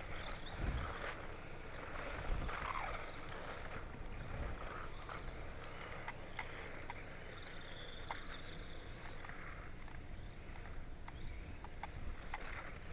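A 1/18-scale brushed-motor electric RC truck driving over loose gravel: a steady hiss of tyres and motor, scattered with sharp clicks of stones being kicked up.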